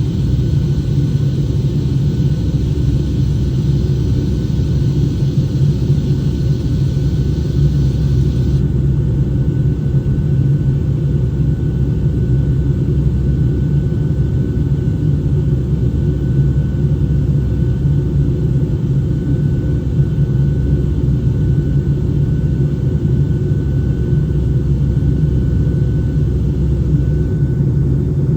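Steady low rumble of a Boeing 757-200's cabin in flight, from its engines and the airflow over the fuselage, with a faint steady whine above it. A higher hiss drops away about a third of the way in.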